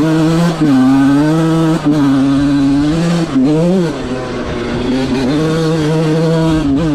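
1997 Honda CR125R's single-cylinder two-stroke engine running under throttle. Its pitch dips briefly three times in the first four seconds, then holds fairly steady.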